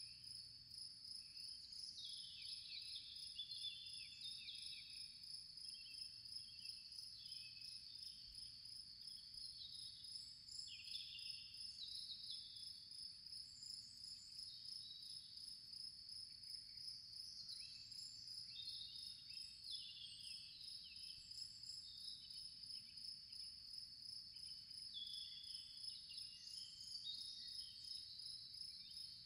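Faint nature ambience: a steady, high, pulsing cricket trill, with scattered short chirps that fall in pitch.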